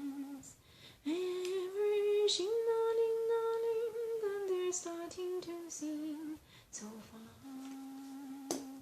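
A woman singing the refrain melody unaccompanied, half-humming, in long held notes. It ends on a long low note near the end.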